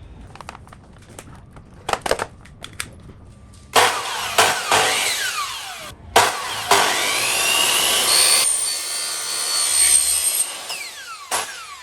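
A power tool cutting in two long runs, its pitch falling as the motor spins down after each. A few sharp knocks come before it.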